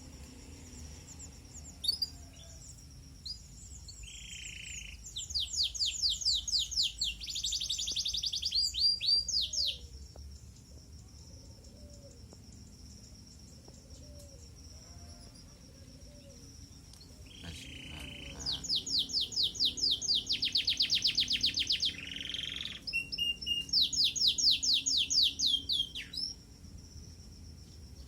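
Canary singing in two long phrases of fast trills and chirps, with a pause of several seconds between them.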